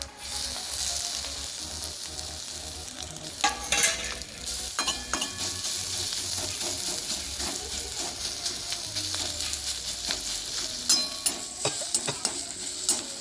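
Grated ginger, dried red chillies and whole cumin sizzling in hot oil in a kadai. The sizzle starts suddenly as the ginger goes in, with a spatula scraping and knocking against the pan now and then.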